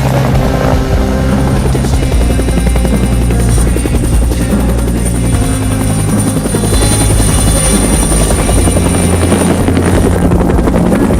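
Helicopter rotor chop over rock music with sustained bass notes.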